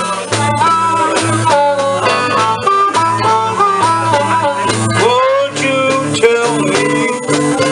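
Live blues band playing: a guitar plays a lead line with bent, gliding notes over a repeating bass line, which shifts to a new pattern about five seconds in.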